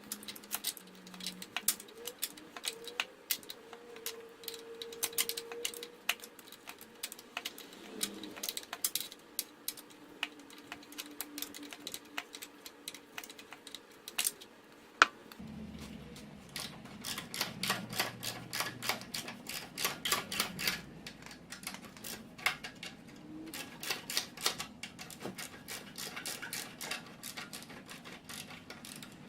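Ratchet wrench clicking in quick irregular runs while bolts are undone to take the radiator piece off the engine, with one much sharper click about halfway through.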